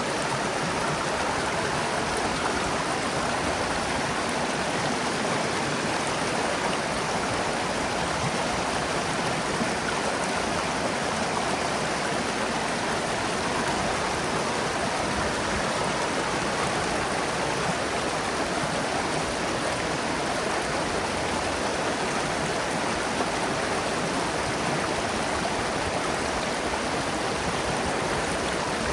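Running water, a stream flowing steadily, with an even, unbroken sound.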